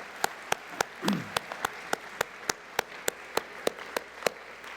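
Audience applauding, with one set of loud, evenly spaced claps close by, about four a second. The close claps stop shortly before the end as the applause dies down.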